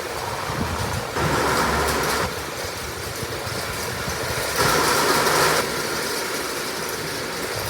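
Heavy rain with strong wind, a steady rushing noise with wind buffeting the phone's microphone. It swells twice, suddenly, for about a second each time, about a second in and again past the middle.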